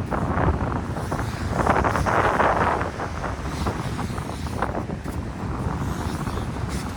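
Strong wind buffeting the microphone: a heavy low rumble with gusts that swell and ease, loudest about two seconds in.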